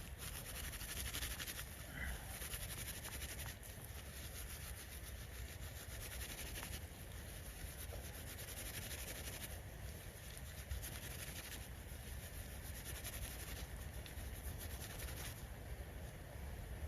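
Bark being rubbed and scraped by hand to shred it into a fluffy tinder bundle: a dry, raspy scratching in several stretches of a few seconds each, over a steady low rumble.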